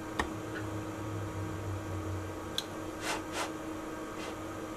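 Steady electrical hum from the bench equipment. Over it come a few sharp clicks of buttons being pressed on the oscilloscope, and two brief rustles about three seconds in.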